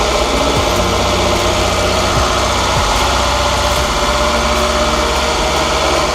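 VW Golf GTI Mk2's four-cylinder petrol engine idling steadily, just revived after years off the road, with its oil still circulating.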